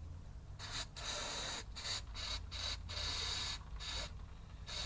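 Repeated short bursts of hissing spray, about eight in a row, some brief and a couple lasting over half a second, used to clean out a mud-filled driveshaft hole where a grease nipple is missing.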